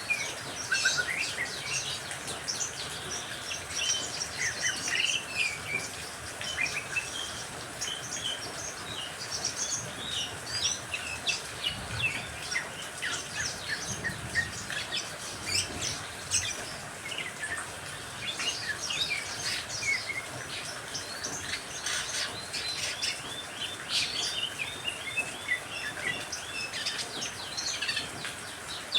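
Many birds chirping and singing in quick overlapping short notes over a steady hiss of rain.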